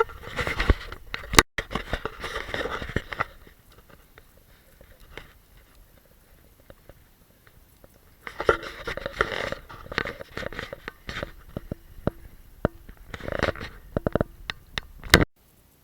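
Footsteps crunching through fresh snow in two stretches, with a quieter pause in between.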